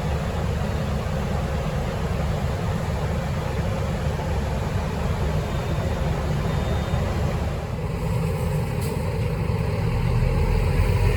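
Single-decker city bus running, with a steady hum heard from inside the cabin. About eight seconds in the sound changes to the bus heard from outside, and it grows louder near the end.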